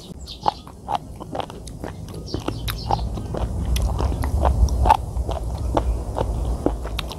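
Close-miked chewing of sliced sea cucumber: a run of short, wet, crunchy bites and chews. Wind rumbles on the microphone, getting stronger in the second half.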